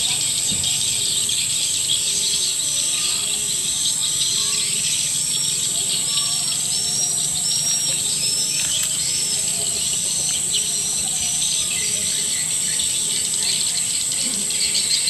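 Recorded swiftlet lure call: a dense run of short, arched chirps from edible-nest swiftlets repeating over a steady high-pitched ringing, the kind of track played in swiftlet houses to draw birds in to nest.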